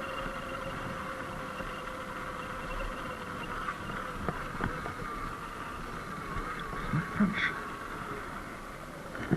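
Surron X Light Bee electric dirt bike running downhill with regenerative braking: a steady motor whine in two pitches over wind and tyre noise. The lower pitch fades about halfway through. A few sharp knocks come in the second half, the loudest near the end.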